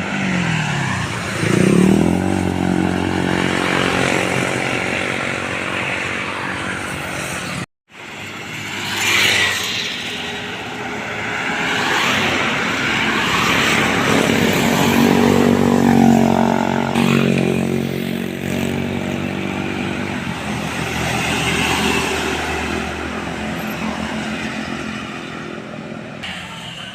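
Heavy diesel trucks passing by on a road, engines running with the pitch rising and falling as each goes past. About eight seconds in, the sound cuts out for a moment, then more passing traffic follows.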